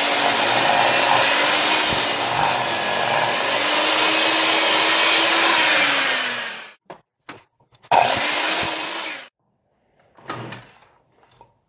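A power tool working a pine block: a loud, steady run with a motor tone that sags and recovers as it bites, stopping about seven seconds in. A second short burst follows about a second later, then a few light knocks.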